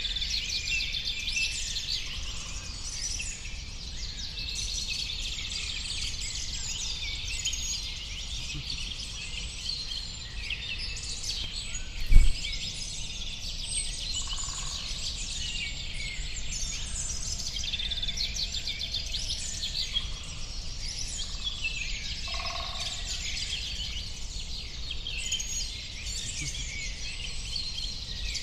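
A chorus of many small songbirds chirping and twittering, densely overlapping, over a low steady rumble. A single thump sounds a little before midway.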